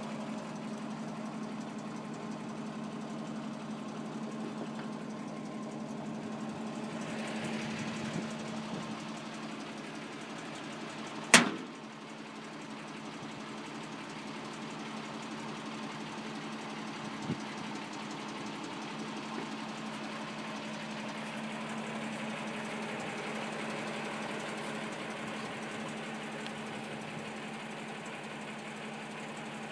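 Toyota FJ40 Land Cruiser's freshly rebuilt F-series inline-six idling steadily, with one sharp click about a third of the way through.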